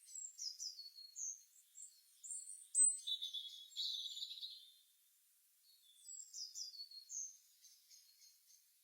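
Songbirds chirping in a morning chorus: quick high chirps and sliding whistles, with a busier, rapid trill about three to four and a half seconds in, a brief lull around five seconds, then more chirps.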